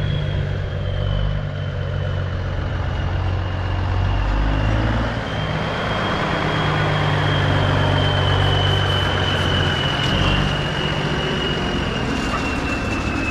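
Detroit diesel engine of a GMC Astro cabover truck running steadily, with a steady high-pitched whine over the engine note.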